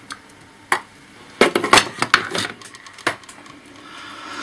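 Small hard plastic and metal laptop parts being handled and set down: a few separate clicks, with a short burst of clattering about a second and a half in.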